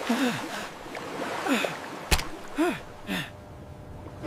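Steady water sound with several short cries that fall in pitch, and a single sharp click about two seconds in.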